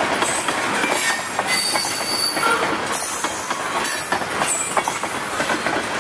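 Ethanol tank cars of a freight train rolling past: steel wheels rumbling and clacking over the rail joints, with a few brief high-pitched wheel squeals.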